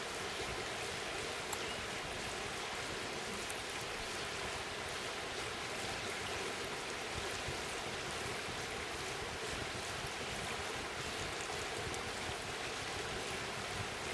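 Campfire burning: a steady rushing hiss of flame with small, scattered crackles and pops from the wood.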